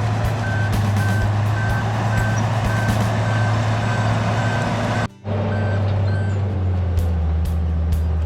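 Case 850K crawler bulldozer running under load with its reversing alarm beeping about twice a second as it backs up; the beeping stops about six seconds in and the diesel engine settles to a lower note.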